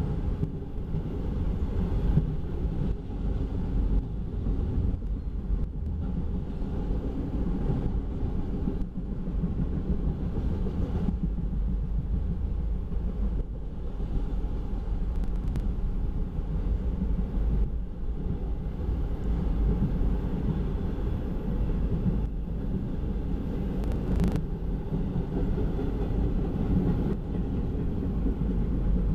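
Autorack freight cars of an auto carrier train rolling steadily past: a continuous low rumble of steel wheels on rail, with a few sharp clicks here and there.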